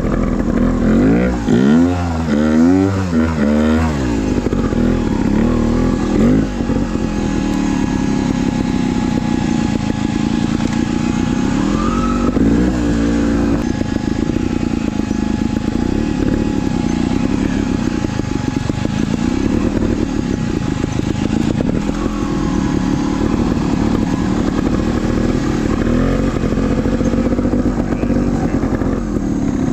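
Trials motorcycle engine running at low revs with slow rises and falls in pitch, blipped quickly several times about two seconds in and again about thirteen seconds in.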